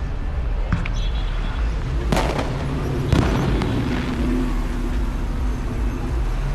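Two sharp bangs about a second apart, like firework reports, over a steady low rumble of traffic.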